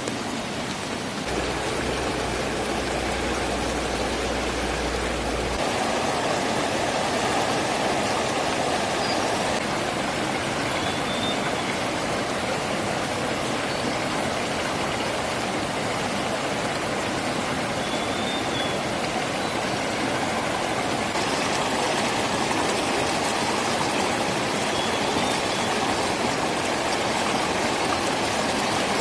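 A small river flowing, a steady rushing of water. A low rumble joins for a few seconds near the start.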